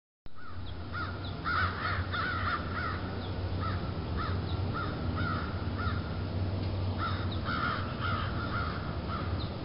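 Birds cawing in runs of quick, harsh calls, thickest about two seconds in and again near eight seconds. Underneath is a steady low hum.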